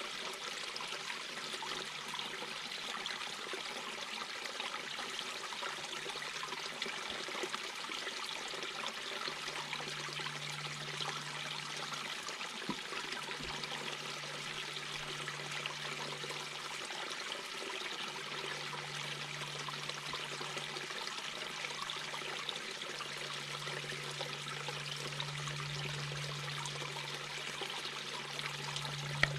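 Mountain brook babbling over its bed: a steady rush and trickle of flowing water.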